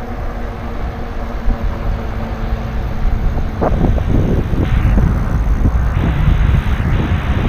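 Heavy low rumble of wind buffeting the microphone and road noise while riding a bicycle. A steady low hum in the first half stops about three and a half seconds in, after which the rumble grows louder and gustier.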